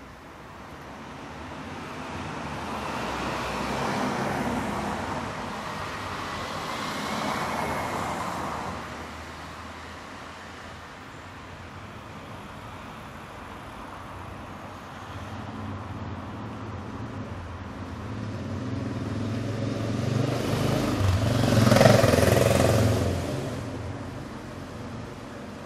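City street traffic: cars passing one after another over a steady traffic hum. Two vehicles swell past in the first third, and one much louder vehicle with a deep engine rumble passes close about four-fifths of the way through.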